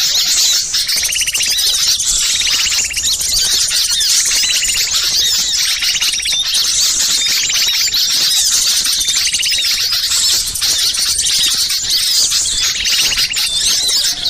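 Many small songbirds calling at once in an agitated, noisy chorus: dense overlapping chirps and twitters with repeated rapid buzzy trills. This is the kind of excited mixed-flock 'ribut' calling played as a lure to draw wild small birds in.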